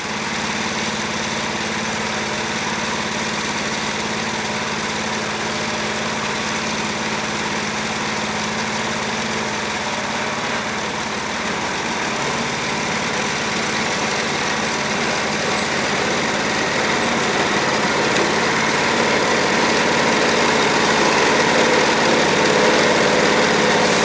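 Wood-Mizer LT15 band sawmill running steadily, its engine and blade drive a constant drone that grows a little louder over the second half.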